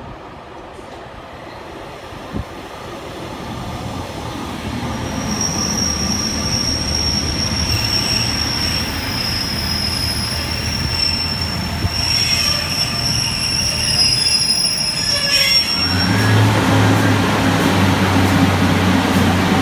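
Pacer diesel railbus, a Class 144, arriving at a platform: its wheels squeal in a high, steady tone from about five seconds in as it slows and brakes. Near the end the squeal stops and the train's underfloor diesel engine runs loud and low close by as it comes to a stand.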